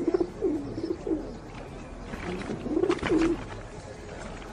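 A flock of birds calling, a string of low, repeated calls that fall in pitch. A brief flurry of sharp noise comes near the middle.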